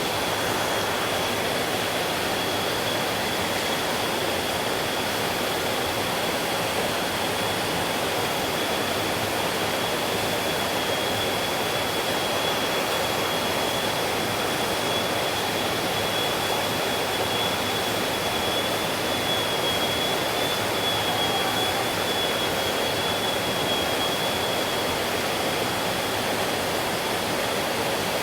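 Mountain stream flowing, a steady, even rushing of water, with a thin high whine held steady through it.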